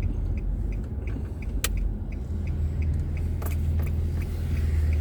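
Car engine and road rumble heard from inside the cabin, with an indicator ticking steadily about three times a second. There is a sharp click near the middle and a knock a little later.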